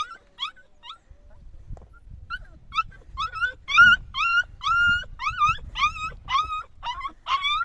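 Dog whimpering and yipping in short, high, bending cries, a few each second. After a pause about a second in, the cries resume and continue steadily.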